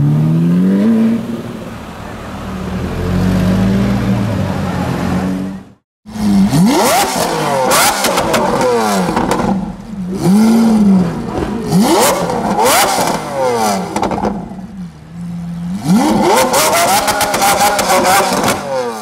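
Lamborghini Murcielago SV's naturally aspirated V12 accelerating away, its pitch rising in the first second and then running steadily. After a sudden cut about six seconds in, a Lamborghini Aventador's V12 is revved hard again and again in sharp blips, with crackles and pops from the exhaust as the revs drop.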